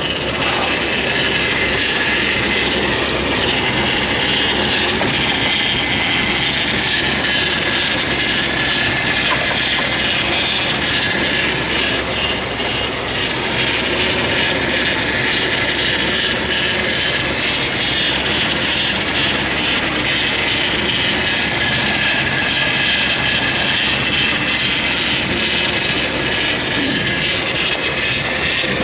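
A 2002 Ford Explorer's engine running steadily and loudly after being cranked. The engine had been reported as cranking but not starting, and the owner suspects a fuel delivery problem.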